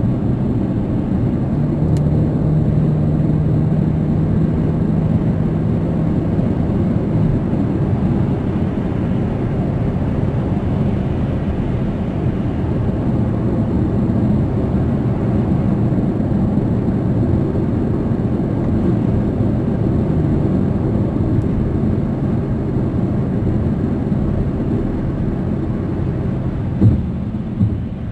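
Road and engine noise inside a moving car's cabin: a steady low rumble, with a low hum for the first several seconds. Two brief thumps near the end.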